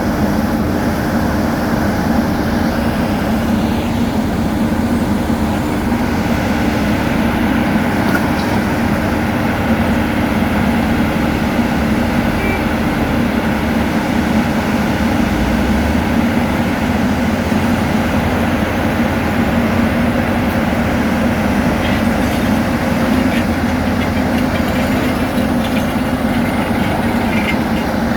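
Heavy diesel road-construction machinery running steadily, a constant engine drone with a low hum and no let-up.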